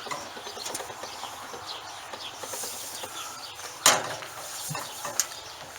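Small birds chirping steadily in the background, with one sharp knock about four seconds in and a lighter one about a second later.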